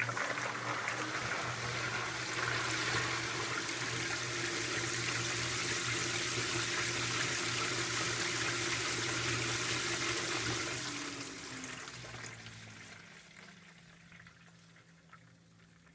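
Water rushing into the tub of a 2012 LG top-load washing machine as it fills, over a steady low hum. The rush fades away over a few seconds about two-thirds of the way through.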